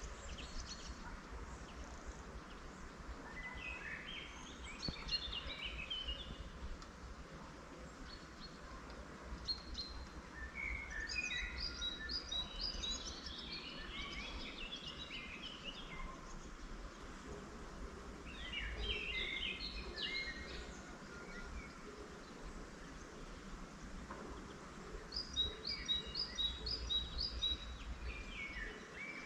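Songbirds singing in short phrases of quick, repeated high notes, about four phrases several seconds apart. A steady low background rumble runs underneath.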